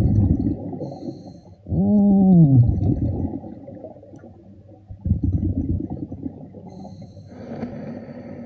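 Underwater sound: a low, muffled rumble of water and bubble noise, with one falling pitched tone lasting about a second, about two seconds in.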